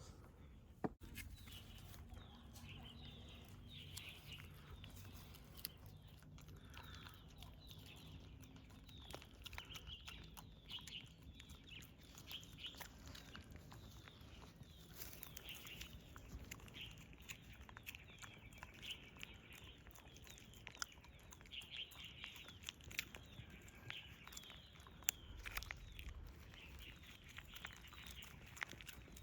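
Faint, high chirping calls from small animals, many short ones in quick succession, with scattered small clicks.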